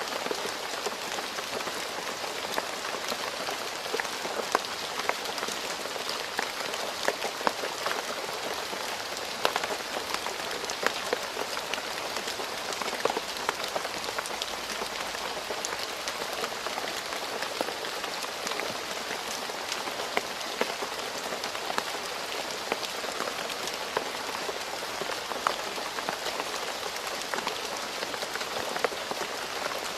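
Steady rain falling on a paved road, an even hiss with many sharp individual drop splats scattered through it.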